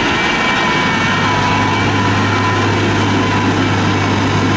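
Heavy diesel engine of road-construction machinery running steadily, a constant low hum with held higher tones over it.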